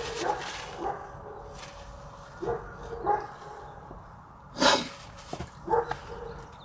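A dog barking in short, separate barks, about six over a few seconds.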